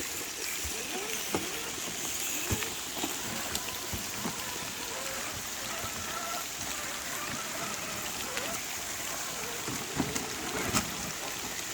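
Steady rain falling on the trail and surrounding leaves, with scattered drips and light taps.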